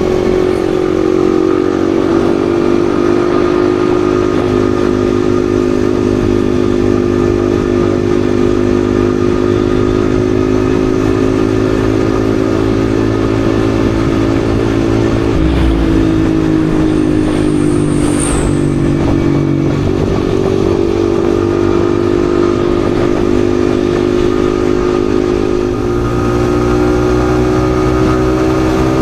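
Yamaha XSR155's single-cylinder engine running steadily at cruising revs while riding, over low road and wind rumble. The engine note dips briefly and recovers a few times, about halfway through and again near the end.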